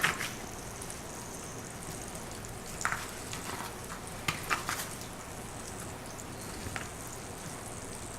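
Flour-breaded steaks frying in shallow blended vegetable oil in a pan: a steady sizzle with a few sharp crackles scattered through.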